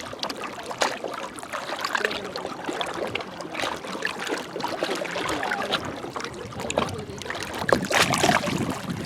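Small lake waves lapping and splashing irregularly against a rocky shore, with a louder run of splashes about eight seconds in.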